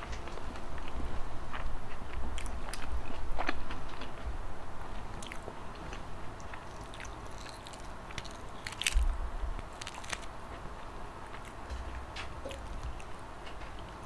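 Close-miked chewing and biting of a mouthful of food, with wet mouth clicks. In the second half come small crackles as the shell of a salted egg is peeled by hand.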